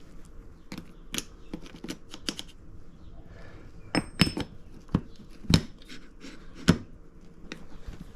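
Steel transmission parts (gears and synchro pieces) clinking and clacking against each other and the shaft as they are handled and test-fitted: a string of sharp knocks, the loudest a little past the middle, one with a short metallic ring about four seconds in.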